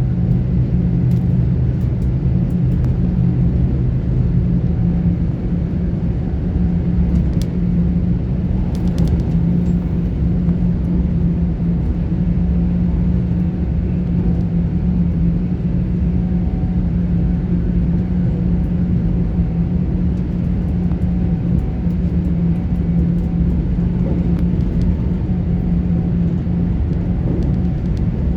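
Great Western Railway Class 800 IET train running along the line, heard from inside the carriage: a steady low rumble of wheels on rail under a constant hum from the drive. A lower hum drops out about five seconds in.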